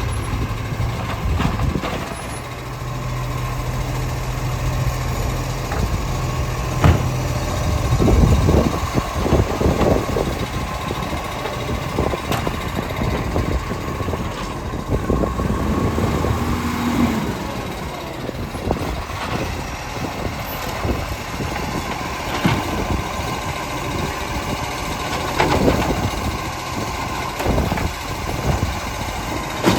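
Garbage truck's diesel engine running, with its pitch rising briefly near the middle, and scattered clunks and knocks. Wind buffets the microphone.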